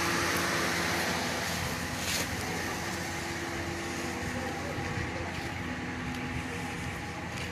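A steady mechanical hum with a few held tones over outdoor background noise.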